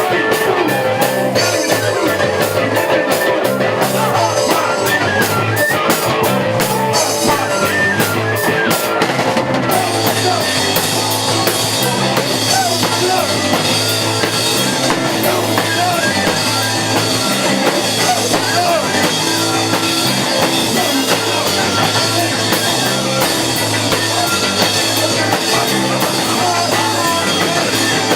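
Live rock band playing loud and steady with drum kit and guitar. Quick, sharp drum or cymbal hits drive the first part, and about ten seconds in the sound turns fuller and brighter, with more cymbal wash.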